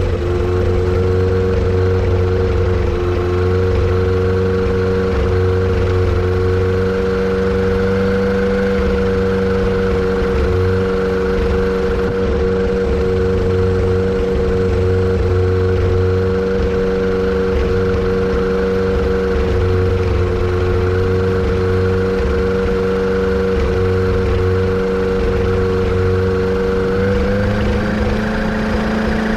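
Kitfox aircraft's Yamaha Apex four-cylinder four-stroke engine running steadily, with an uneven low throb beneath it; about 27 seconds in its speed rises slightly.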